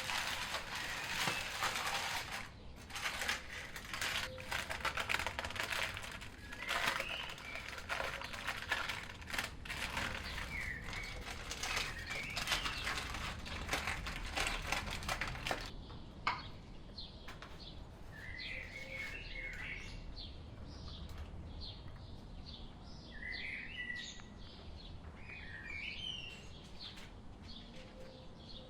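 Small birds chirping in short calls. A dense run of clicks and rustles lies under them for the first half and stops abruptly about halfway through, leaving the chirps over a quieter background.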